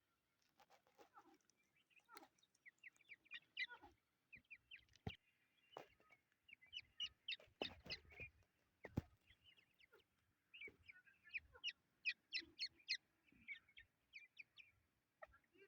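Partridge chicks peeping: runs of short, high chirps one after another, with a few brief knocks among them.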